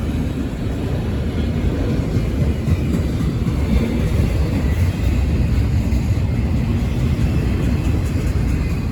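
Freight train rolling by, a steady low rumble with no break or change.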